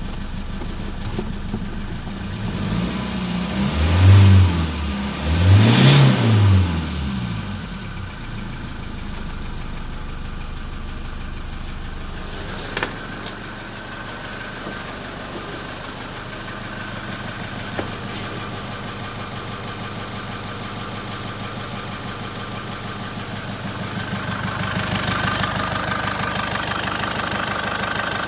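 Great Wall car engine idling, revved twice about four and six seconds in, each rev rising and falling back to idle, then idling steadily again.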